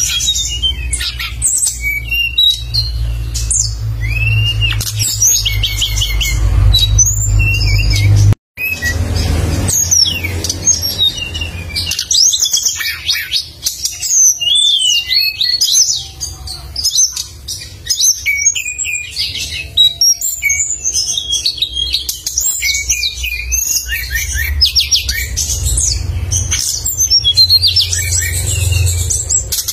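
A caged songbird singing non-stop, fast runs of sharp, high chirps and trills (the 'tembakan' of bird-keepers), over a low steady hum. The sound cuts out for a split second about eight seconds in.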